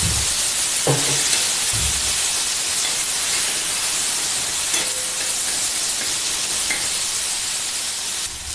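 Chopped tomatoes sizzling and steaming on a hot flat tawa as they are sautéed with a little water, with a steel spatula knocking against the pan a few times in the first two seconds. The sizzle drops quieter near the end once the stirring stops.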